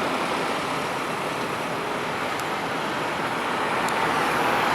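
Steady road traffic noise: a continuous rush of passing vehicles and running engines that grows a little louder near the end.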